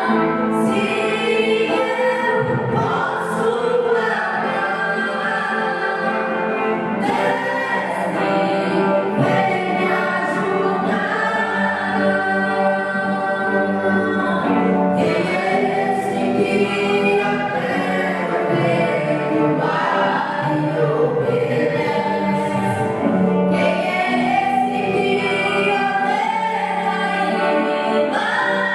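Gospel worship song sung by a choir of voices over musical accompaniment.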